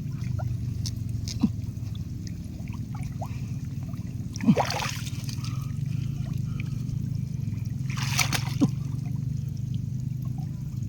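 Shallow water sloshing and splashing as hands grope among water hyacinth roots for snakehead fish, with two louder splashes about four and a half and eight seconds in, over a steady low hum.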